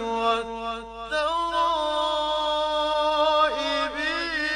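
A man reciting the Quran in a slow, melodic chant, holding long notes on each word. His voice steps up to a higher held note about a second in.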